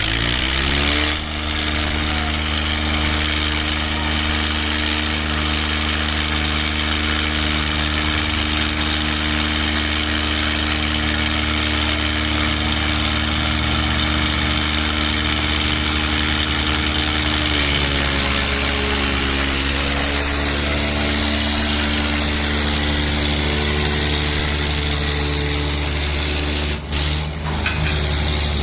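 Swaraj diesel tractor engines running steadily, revving up in the first second. About eighteen seconds in, the engine pitch dips and climbs back before settling again.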